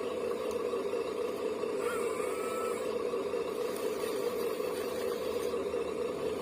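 Motor of a 1/14-scale RC construction model running steadily with an even hum, and a faint short tone about two seconds in.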